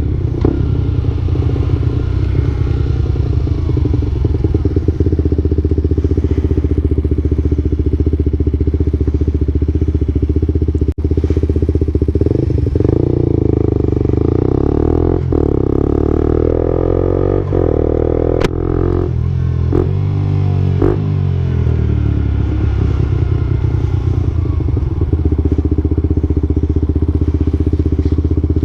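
Suzuki GSX-R125/GSX-S125 single-cylinder four-stroke engine running through an aftermarket Akrapovic-style exhaust. The engine runs steadily, and its pitch shifts and rises for several seconds about halfway through. A few sharp clicks come in between.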